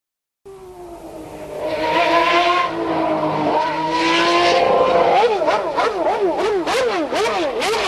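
Rally car engine running, starting suddenly. Through the second half the revs climb and drop over and over, about once a second, with sharp crackles over the engine note.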